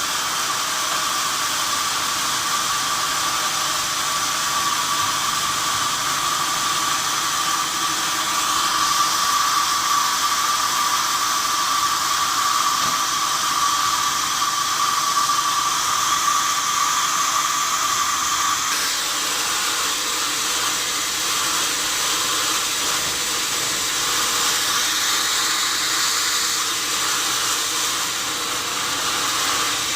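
Sawmill saw cutting through a wadang log: a steady high whine over a constant hiss. About two-thirds of the way through the whine drops away while the machine keeps running.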